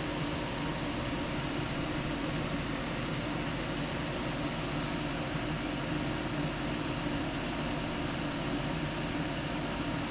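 A fan running steadily: an even whooshing noise with a faint hum, unchanging throughout.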